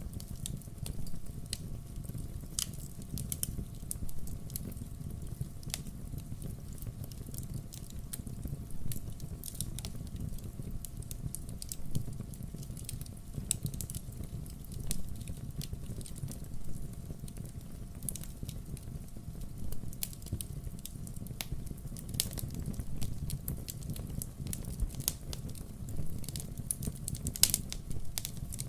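Wood fire burning, with dense irregular crackles and occasional louder pops over a low steady rumble.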